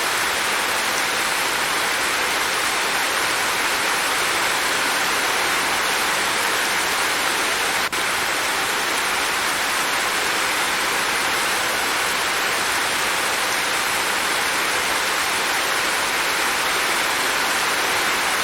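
Steady rainfall, an even hiss of many drops, with a brief dip in loudness about eight seconds in.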